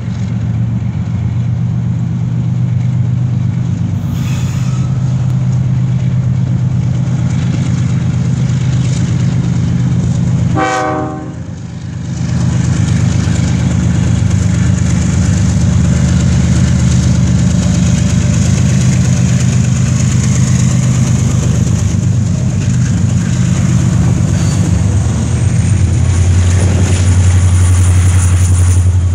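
CN freight train hauled by diesel-electric locomotives approaching and passing directly below, the engines running with a steady low rumble that gets heavier near the end as the locomotives pass underneath. About eleven seconds in, the locomotive gives a short horn toot with several tones.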